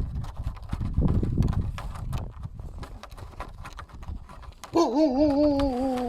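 Irregular clopping knocks like hoofbeats, then, about a second before the end, a loud wavering animal call that cuts off abruptly.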